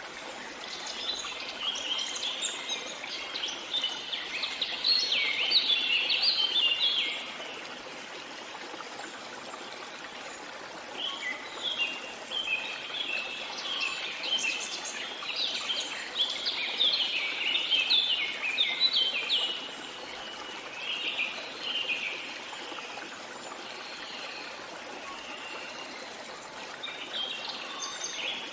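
Songbirds singing in long runs of rapid twittering notes, one run from about a second in to about seven seconds and another from about eleven to twenty seconds, with shorter bits of song near the end. Underneath is a steady rush of running stream water.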